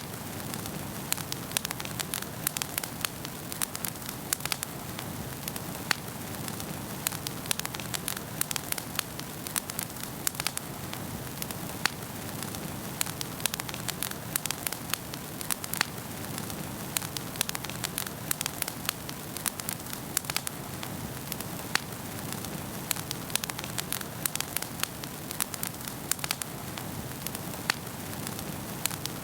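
Wood fire burning in a fireplace: a steady hiss with frequent sharp, irregular crackles and pops from the burning logs.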